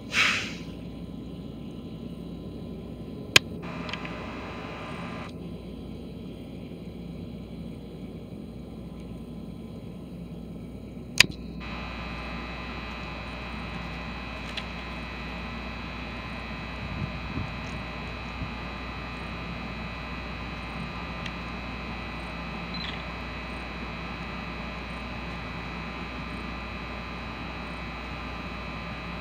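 Steady electrical hum from a stationary commuter train standing at the platform, with a short burst of noise at the very start and two sharp clicks about 3.5 and 11 seconds in; after the second click the hum gains a stronger steady tone.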